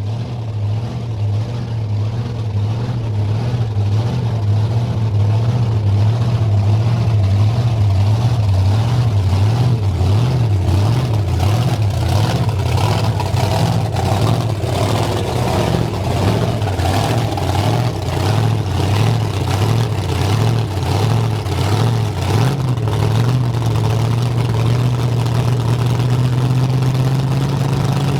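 Monster truck engine running hard and loud, its deep steady note wavering up and down with throttle through the middle stretch.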